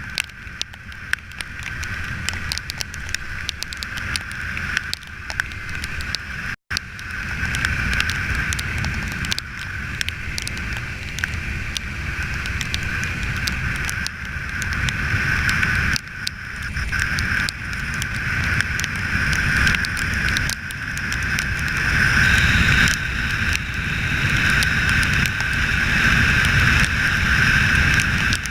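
Wind rushing over an unshielded microphone on a moving motorcycle, with engine and road noise running underneath. The noise builds gradually and cuts out for an instant about six and a half seconds in.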